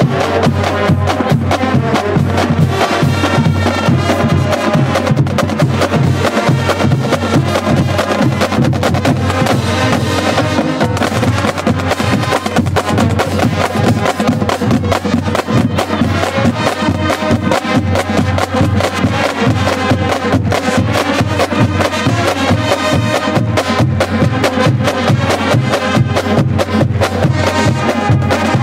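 Marching band playing a loud, continuous tune over a steady drum beat, with bass drum and woodblock-like percussion strokes.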